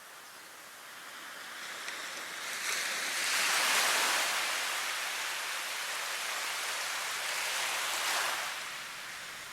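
Rushing water noise that swells up over a few seconds, holds, and eases off near the end, in the way of a wave washing in.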